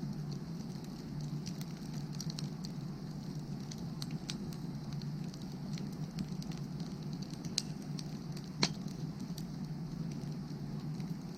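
Wood fire burning steadily with scattered crackles and small pops. A sharper pop comes about two-thirds of the way in.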